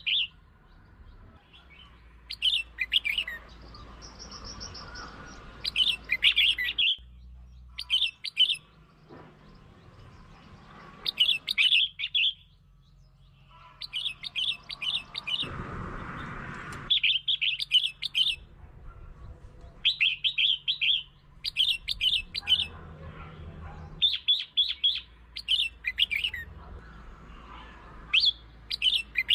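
Red-whiskered bulbul singing: short, bright chattering phrases about a second long, repeated every two to three seconds. This is song used to lure and excite other bulbuls.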